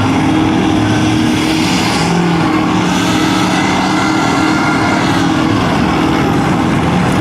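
Loud, steady engine noise from trucks, with the pitch of more than one engine shifting up and down.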